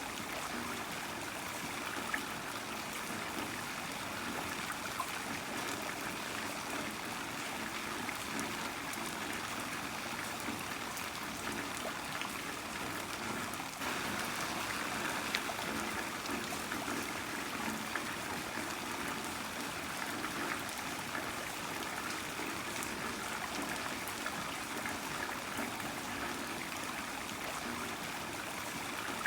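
Heavy rain falling steadily, a dense even hiss of water with many small drop patters and trickling runoff.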